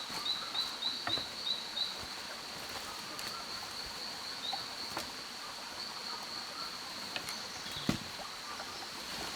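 Rainforest ambience: a steady, high-pitched insect drone, with a quick run of short chirping notes in the first two seconds. Scattered light clicks and snaps, one sharper near eight seconds in.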